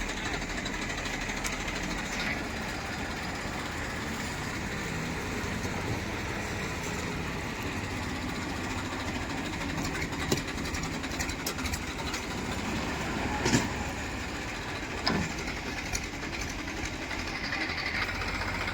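Heavy diesel machinery running steadily, with a few sharp knocks about ten, thirteen and fifteen seconds in.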